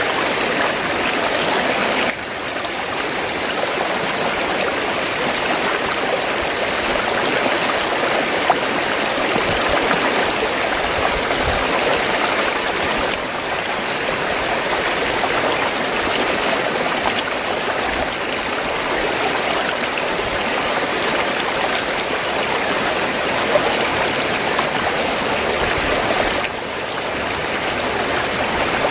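Fast-flowing stream water gurgling steadily, with a sudden small dip in level about two seconds in and again near the end.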